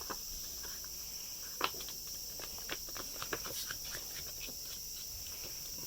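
Steady high chirring of crickets, with scattered small clicks and taps, the loudest about one and a half seconds in.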